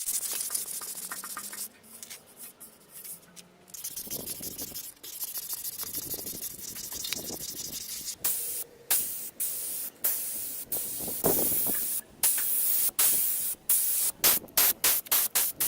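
Paint being sprayed: a pressurised nozzle hissing, at first in longer passes and then in many short, quick bursts toward the end.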